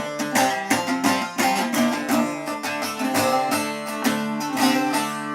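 Instrumental music: a plucked string instrument playing quickly picked notes over a steady low note, with no singing.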